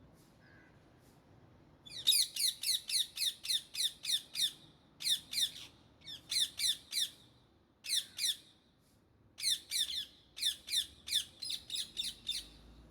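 Indian ringneck parakeet calling in rapid bursts of shrill, falling squawks, about four or five a second, in several runs with short pauses between them.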